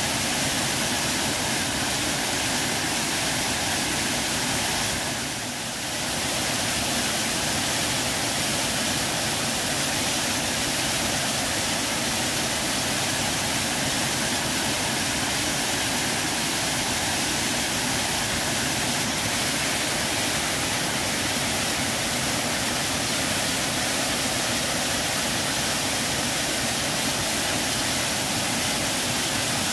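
Waterfall: a steady, even rush of falling water, with a brief dip in level about five seconds in.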